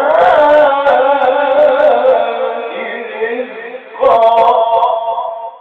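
A man reciting the Quran in a melodic, drawn-out chant, his voice holding and bending long notes. The line tails off, a new phrase starts about four seconds in, and it ends just at the close.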